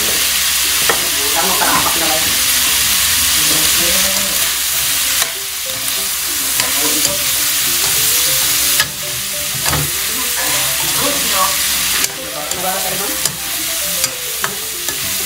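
Bullfrog meat sizzling in hot oil in a metal wok as a spatula stirs it, with scraping and sharp clicks of the spatula against the wok. The sizzle dips briefly a few times.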